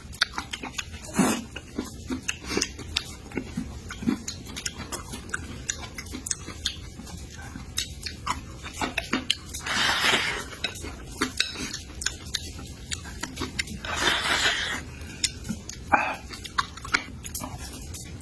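Close-up chewing and eating sounds, with many small clicks of utensils against dishes and two longer breathy rushes, about ten and fourteen seconds in.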